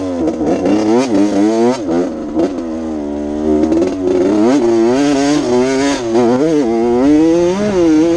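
Honda CR80 80cc two-stroke motocross bike engine being ridden, revving up and down over and over, its pitch rising and dropping every second or so with the throttle.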